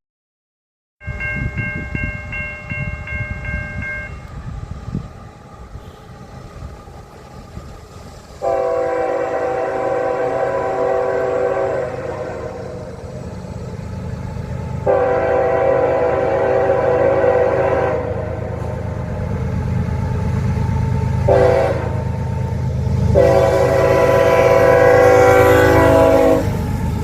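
Diesel locomotive horn over the steady rumble of the passing train. After an opening blast, the horn sounds long, long, short, long: the standard signal for a grade crossing.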